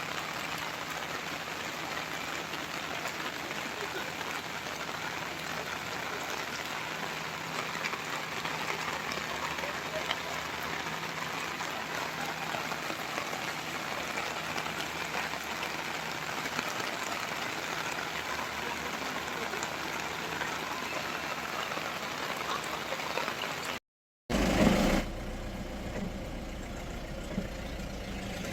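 Steady rain falling, an even hiss. Near the end the sound cuts out abruptly, then a short loud knock is followed by a low steady rumble.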